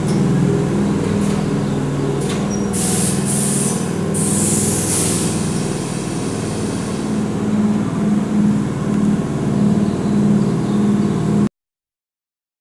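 Keihan 2200-series electric commuter train rolling to a stop at a platform, with a steady low hum from the train. Loud hisses of air from the brakes come about three to five seconds in, and the sound cuts off suddenly near the end.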